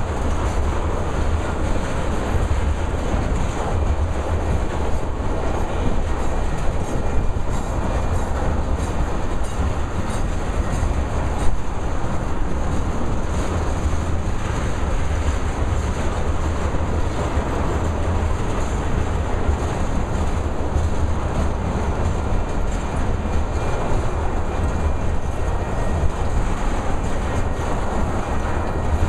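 Freight train of ethanol tank cars rolling past, a steady rumble with wheels clacking over the rail joints.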